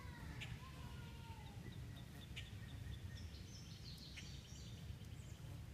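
Songbirds singing faintly: a few gliding whistles at first, then a quick run of high chirps and a short trill, with a few sharp clicks over a low steady rumble.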